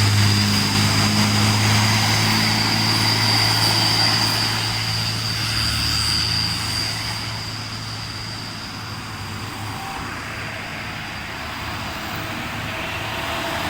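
Passing truck: a low steady engine drone with tyre and road noise that fades away over the first several seconds, then another vehicle approaching near the end. A thin high whine sounds through the first half.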